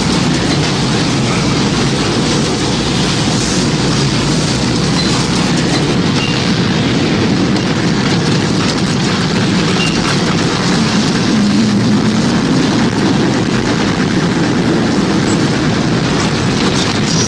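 Tornado sound effect: a loud, steady, low rumbling roar of wind, swelling slightly about twelve seconds in.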